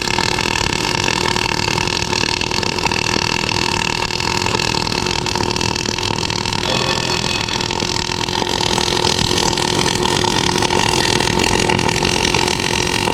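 Electric welding arc burning steadily, giving an even hiss and crackle with a faint hum underneath.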